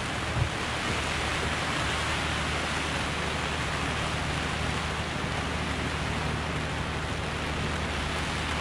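Squall rain and wind rushing steadily against a sailboat's cockpit tent, with the sea rushing past, and a low steady hum beneath.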